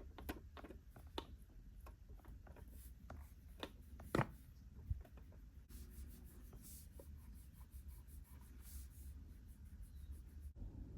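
Small miniature pieces being handled, with light clicks and taps, then about halfway a quick, even run of rubbing strokes as a small surface is scrubbed clean; the strokes stop abruptly near the end.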